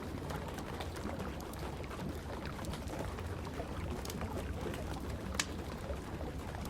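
Wood fire crackling in a fireplace, with a few sharp pops, the loudest about five seconds in, over a steady rain and low rumble.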